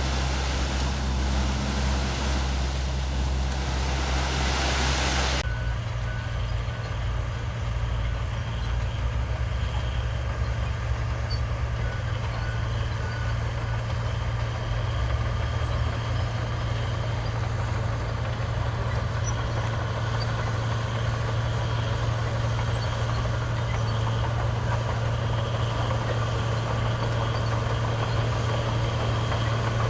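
Diesel engines of heavy earthmoving machinery, dump trucks or a bulldozer, running. A noisier, hissier engine sound for about the first five seconds changes abruptly to a steady low engine drone.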